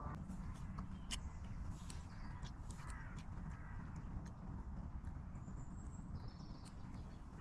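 Outdoor ambience: a steady low rumble with scattered light clicks and a few faint, short bird calls, around three seconds in and again near six seconds.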